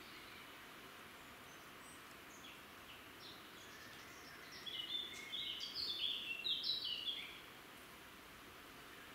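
A songbird singing a rapid burst of short, high chirping notes for nearly three seconds in the middle, over a steady background hiss, with a few faint bird notes before it.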